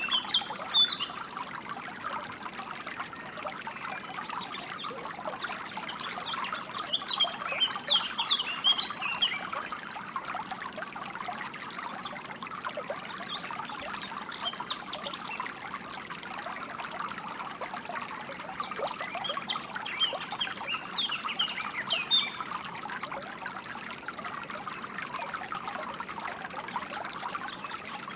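A small stream of water trickling and splashing steadily, with songbirds chirping in scattered spells of quick high notes every few seconds.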